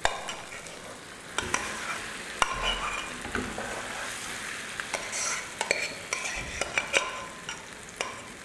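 Boiled dal poured into hot ghee and fried spices in a kadhai, sizzling as a metal spoon stirs it in, with sharp clinks of the spoon against the pan every second or so.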